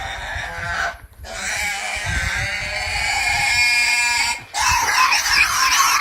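A farm animal bleating in long drawn-out calls, with two short breaks near one second and four and a half seconds in.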